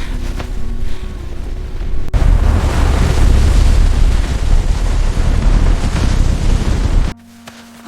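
Loud rushing noise with a deep rumble, under faint music at first; it grows louder about two seconds in and cuts off suddenly near the end.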